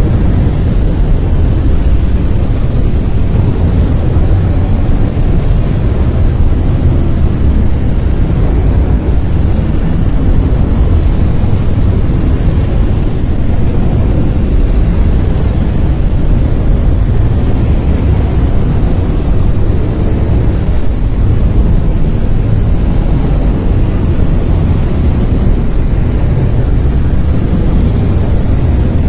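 Brown noise: a steady, loud, deep rumbling hiss, strongest in the bass, unchanging throughout.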